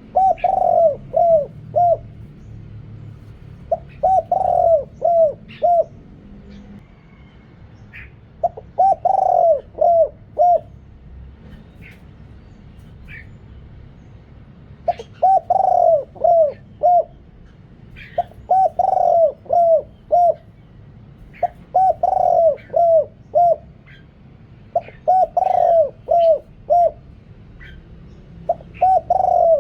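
Spotted dove cooing. Each phrase is one long coo followed by three short notes, repeated every three to four seconds, with a longer pause in the middle.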